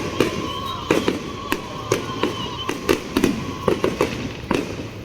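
Fireworks going off in a quick, irregular string of sharp bangs and crackles, two or three each second.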